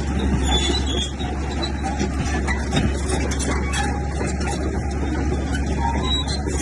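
Heavy diesel earth-moving machinery running steadily with a deep low drone, with a few faint clinks and knocks.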